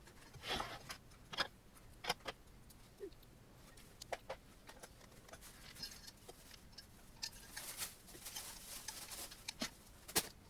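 Scattered light clicks, taps and small rattles of metal parts and tools being handled during assembly of a 3D printer, with brief rustling scrapes about half a second in and again late on.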